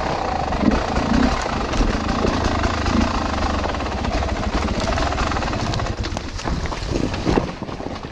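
Off-road bike ridden over rough trail: wind rumbling on the microphone, with a steady run of rattles and knocks from the bike on broken ground, easing briefly about six seconds in.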